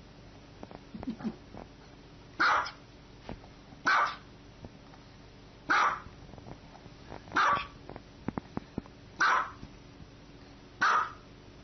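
Small white dog barking six times, short sharp high barks about one every second and a half.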